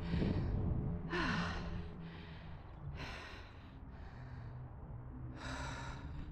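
A person breathing hard, with a loud noisy breath every second or two, over a low steady hum.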